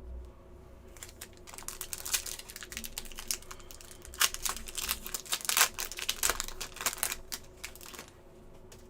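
Trading card packs being handled and opened: a dense run of quick clicks and crinkling from foil wrappers and cards, heaviest in the middle and stopping about a second before the end.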